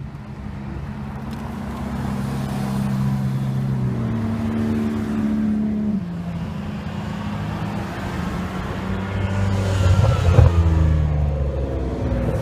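Supercar engine under acceleration: the note holds and climbs, drops at a gear change about six seconds in, then builds again. It is loudest about ten seconds in as the car goes by, and the pitch falls away after that.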